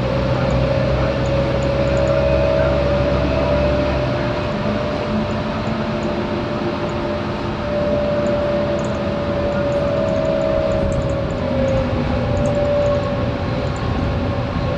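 Scania K230UB single-deck bus under way, its five-cylinder diesel running with a steady high whine that wavers slightly in pitch. A deep low engine note eases off about four seconds in.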